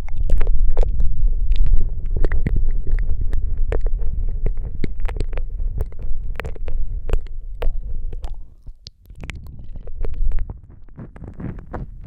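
ASMR mouth sounds close into a Rode microphone: a rapid, irregular run of wet lip and tongue clicks and smacks over a heavy low rumble, easing off briefly about nine seconds in.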